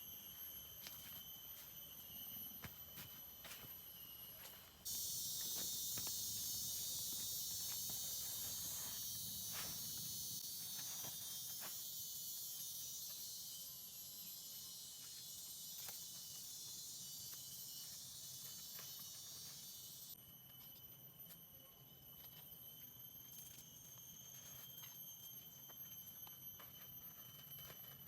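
Forest insects calling with steady shrill tones. A much louder high-pitched insect buzz starts suddenly about five seconds in and cuts off suddenly about fifteen seconds later.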